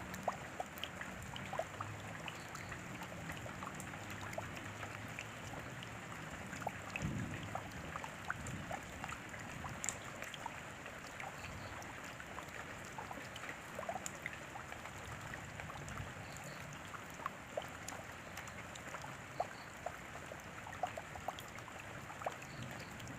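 Steady rain falling, a constant wash with many separate drops ticking on a surface. There is a faint low rumble about seven seconds in.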